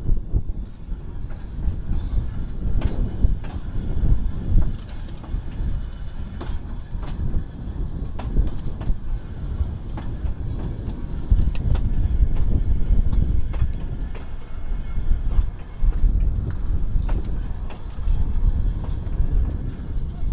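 Small work train rolling along old jointed track, heard from on board: a low rumble with irregular clicks and knocks as the wheels pass over rail joints.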